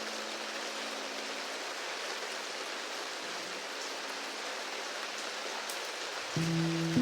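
Steady rain falling, an even hiss, with the last notes of a piano dying away at the start and a piano beginning to play again about six seconds in.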